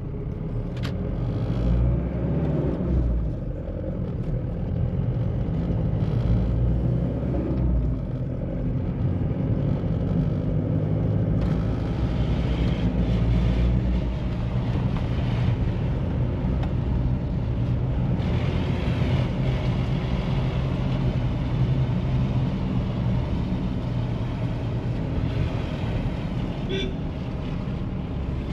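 2013 Mahindra Bolero SUV driving, its diesel engine running under steady road and tyre noise, with the engine pitch rising and falling as the speed changes.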